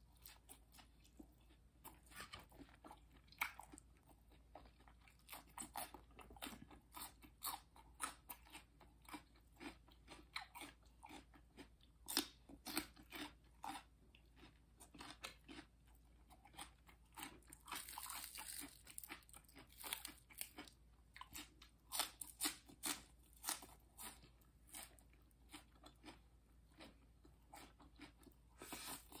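Close-miked chewing of crunchy food, with many sharp crunches throughout and a longer hissy stretch about 18 seconds in.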